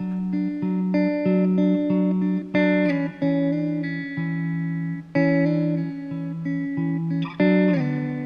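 Background guitar music: notes picked in a steady rhythm, ending on a chord struck near the end that rings out and fades.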